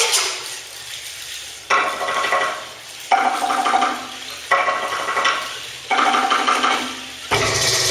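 Rattling, hissing percussion with a few pitched tones in it. It strikes sharply about every second and a half and fades away between strokes.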